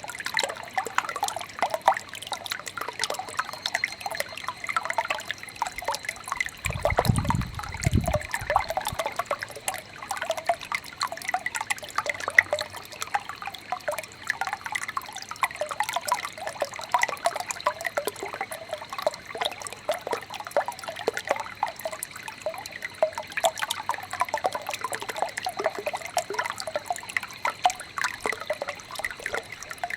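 Shallow stream babbling and trickling steadily, with a constant patter of small splashes. A brief low rumble about seven seconds in, and a faint steady high tone runs underneath.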